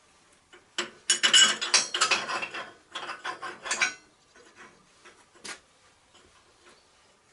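Metal tools or parts being handled, clattering and clicking densely for about three seconds, then a few scattered clicks with one sharper click about five and a half seconds in.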